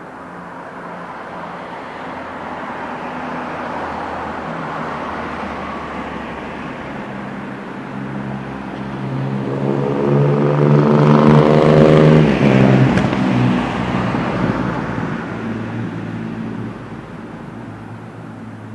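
A motor vehicle passing close by. Its engine note builds over several seconds, peaks about twelve seconds in, then drops in pitch and fades away.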